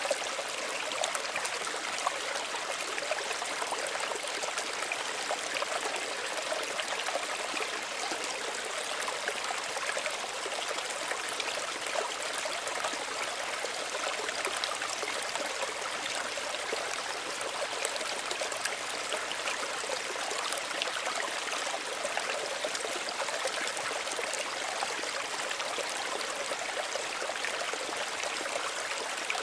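Small stream of running water, a steady, even babble and trickle over stones.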